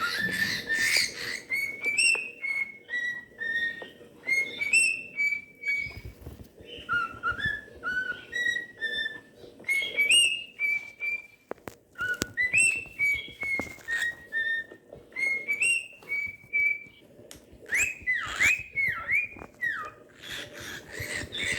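Cockatiel whistling a tune: a run of short whistled notes with small upward slides, then near the end a series of quick swooping up-and-down whistles.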